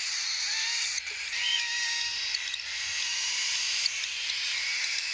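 A group of baby cockatiels giving steady raspy, hissing begging calls, with a few short chirps about a second and a half in. They beg this way whenever they see their keeper, even with full crops.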